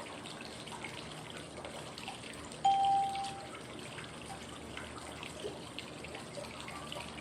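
Steady flowing-water white noise with small drips. About 2.7 s in, a single short electronic cue tone sounds for under a second, marking a change of breathing phase in a 555 breathing exercise.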